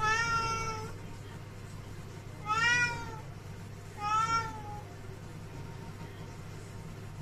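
Domestic cat meowing three times, each meow under a second long and the three a second or two apart, calling for its owner's attention.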